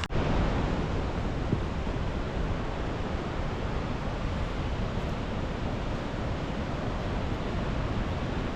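River rushing past with a strong current, a steady roaring noise of fast-moving water.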